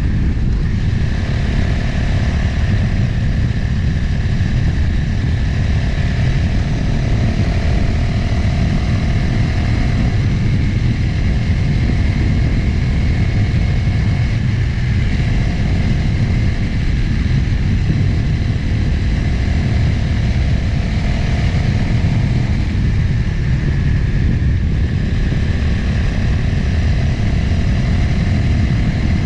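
Motorcycle engine running under way, heard onboard with heavy wind rush on the microphone; the engine note shifts in pitch a few times as the throttle changes.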